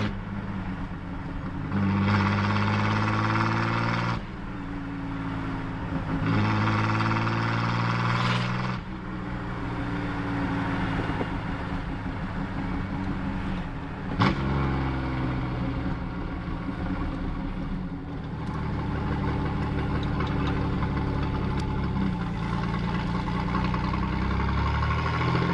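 Chevrolet S10 pickup's straight-piped exhaust with a glasspack, running while driving. It gets louder twice under throttle in the first nine seconds, there is a single sharp click about fourteen seconds in, and after that it settles into steadier cruising.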